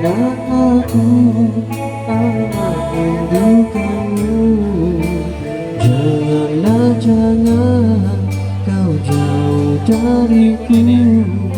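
Band music from the song's intro: a lead melody with sliding, bending notes over held bass notes and a steady beat.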